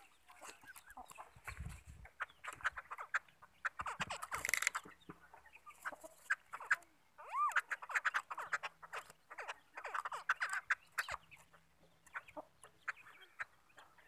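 Caged black songbirds calling: a busy run of short, sharp chattering notes and clicks, with a few brief whistled notes that slide in pitch.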